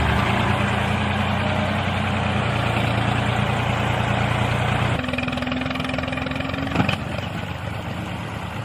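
A tractor engine running steadily. About five seconds in, the note changes to a different engine sound, with a short knock just before seven seconds.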